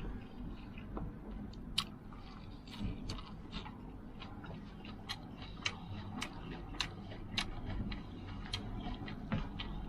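A person eating a big bowl of noodles tossed with scallion and coriander: chewing, with wet mouth clicks and smacks coming irregularly, about one or two a second.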